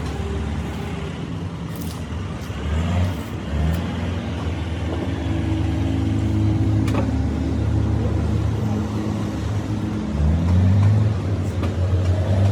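Vehicle engine running steadily, revving up briefly about three seconds in and again near the end.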